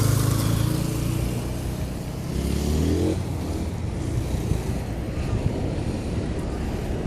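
Street traffic: a motor vehicle's engine hum fades away, then a second vehicle accelerates past with a rising engine note about two seconds in.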